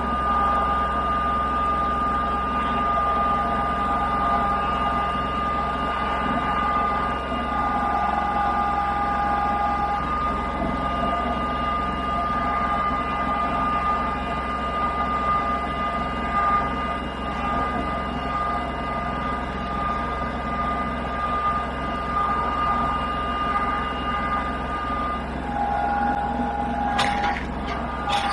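A motor running steadily, a constant low hum with a held whine above it, with a few clicks near the end.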